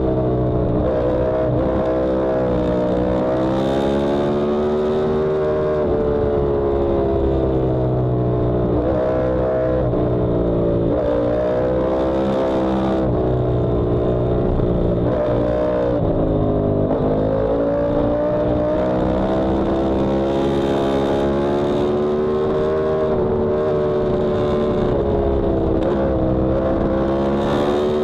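Yamaha R1M sport bike's crossplane inline-four engine at full track pace. Its pitch climbs through the revs and drops sharply again and again as it changes gear and slows for corners.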